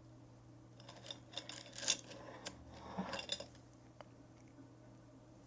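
Light clicks, rustles and small clinks of objects being handled on a table, clustered between about one and three and a half seconds in, over a faint steady hum.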